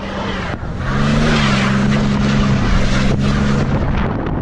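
Truck engine pulling away, picking up about a second in and holding steady revs before dropping off near the end, under a broad rushing hiss.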